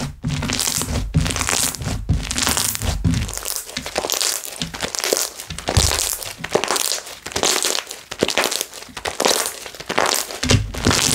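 Hands pressing, folding and stretching slime, with dense crackling and popping of trapped air bubbles, and dull low thumps in the first few seconds and again near the end.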